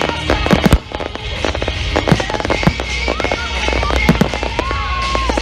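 Display fireworks going off in quick succession: many sharp bangs and crackles, with music playing over them.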